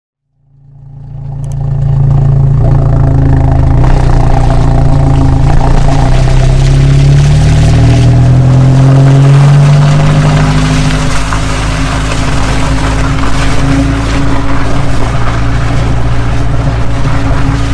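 Chevrolet Cruze 1.4L turbo four-cylinder through a ZZP Turbo Performance aftermarket exhaust. The exhaust note fades in, then runs loud, its pitch climbing gently before dropping about ten seconds in.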